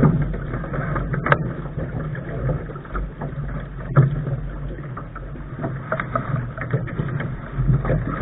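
Lark sailing dinghy under way, water rushing and slapping against the bow, with a steady low rumble and several sharp splashes or knocks, the loudest about four seconds in.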